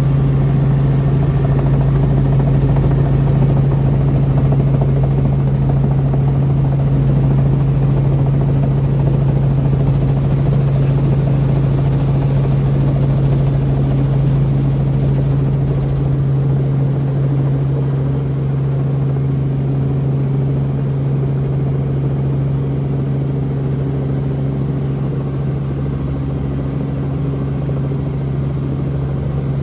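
Helicopter engine and rotor droning steadily, heard from inside the cabin as the helicopter comes in to land. The low rumble beneath the drone eases a little past halfway through.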